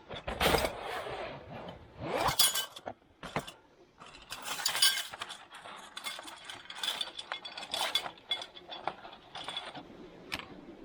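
Irregular clinks and clatters of hard objects being handled and knocked together, with a few louder knocks in the first five seconds and lighter clinks after that.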